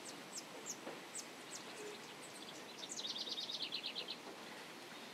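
Birdsong: short, high chirps sliding downward, about three a second, then a fast trill of about a dozen notes around three seconds in, over a faint steady hiss.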